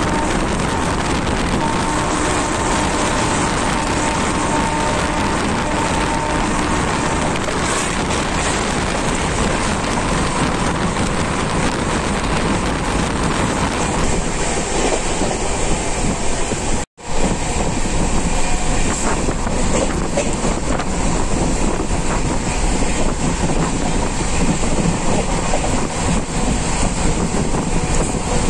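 Passenger train running at high speed, heard from an open coach doorway or window: a loud, steady rush of wind and rail noise with the wheels clattering over the track. The sound breaks off for a moment about two-thirds of the way through, then carries on.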